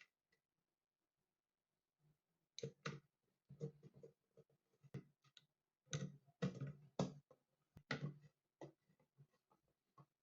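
Irregular light clicks and knocks of hard objects being handled, starting a couple of seconds in and coming several times a second in clusters.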